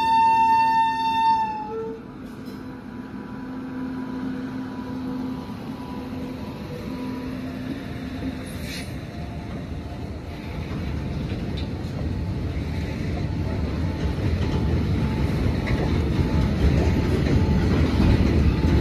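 A WAG9 electric locomotive passing, then BOXN open freight wagons rolling by: a steady electric hum at first, giving way to a rumble and clatter of wagon wheels on the rails that grows louder toward the end. A loud pitched tone with many overtones cuts off about two seconds in.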